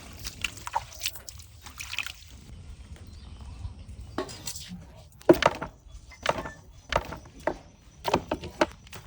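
Water being handled in a cooking pot: faint sloshing at first, then from about four seconds in a run of irregular splashes and sharp knocks.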